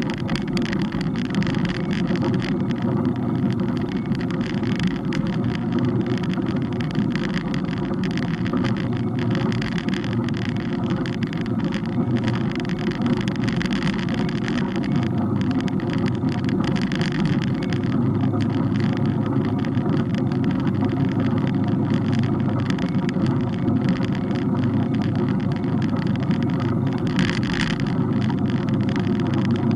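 Steady rumble of a moving bike's wind and road noise, with constant fine crackling.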